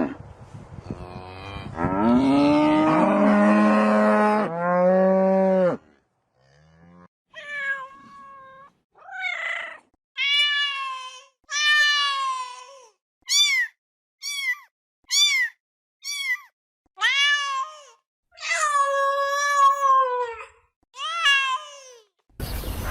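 A cow lows in two long, deep moos during the first six seconds. Then a cat meows repeatedly, about eleven meows a second or so apart, some short and some drawn out.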